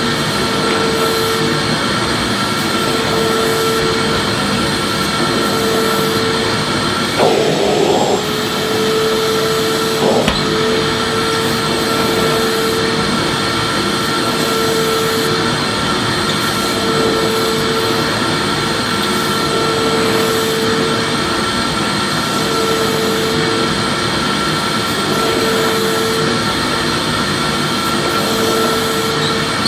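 Electric vacuum cleaner running continuously with a steady whining rush, a lower hum that swells and fades about every two and a half seconds. A brief rattle comes about seven seconds in and a click about ten seconds in.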